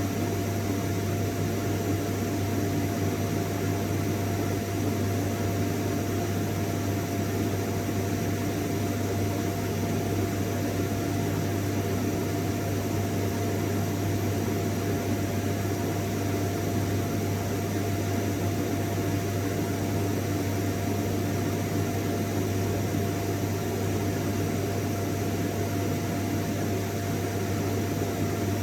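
Vacuum cleaner running steadily, its motor giving a constant low hum and a steady whine over a rushing hiss of air.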